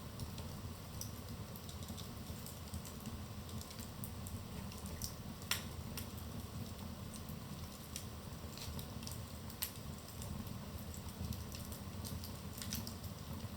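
Wood fire crackling in a fireplace: irregular small pops and snaps over a low, steady rumble of the burning logs, with a sharper pop about five and a half seconds in and another near ten seconds.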